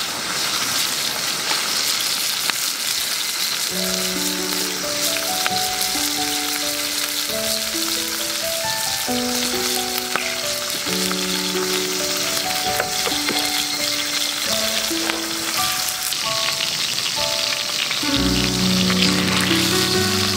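Chicken pieces sizzling steadily in a cast iron skillet over a campfire, under a light background melody of short notes that comes in about four seconds in. The sizzle grows a little louder near the end.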